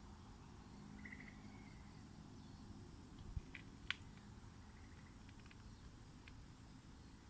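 Faint outdoor ambience in a tropical park under a low rumbling haze, with a short chirping call about a second in and a few light clicks between three and four seconds in.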